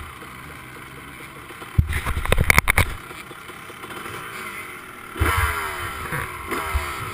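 Motocross dirt bike engines at a track: a burst of loud knocks and clatter about two seconds in, then from about five seconds an engine revving with its pitch falling again and again.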